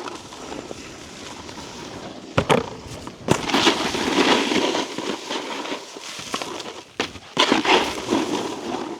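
Snowboard sliding and scraping over hard, icy snow: a rough, rising-and-falling hiss of the base and edges, broken by several sharp knocks of the board hitting bumps or landing, about two seconds in, again a second later, and twice near seven seconds.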